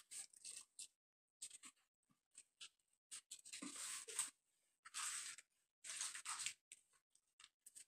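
Fried chicken drumsticks being eaten up close: crisp crunching and chewing in a few short bursts, the biggest about halfway through, with small clicks between.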